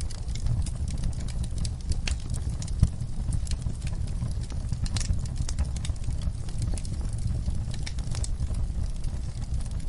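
Wood fire crackling in a fireplace: a steady low rumble of burning with scattered sharp pops and snaps, one louder pop near three seconds in.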